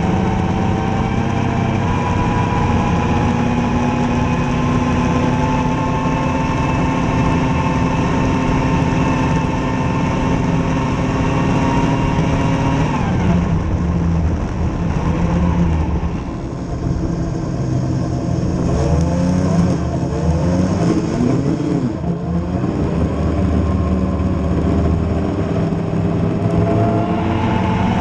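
Engine of a vehicle being ridden, held under steady throttle with its pitch slowly climbing. About halfway through the pitch drops, and the revs then rise and fall over and over.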